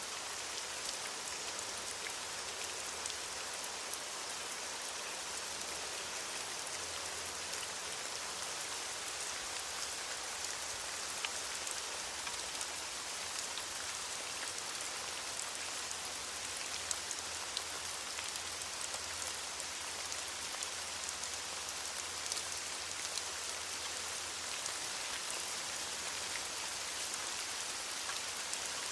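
Steady rain falling on leaves: an even hiss of many drops, with scattered individual drop ticks.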